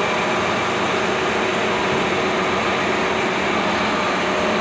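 Heavy equipment diesel engine running steadily at a constant, loud level, with no change in speed.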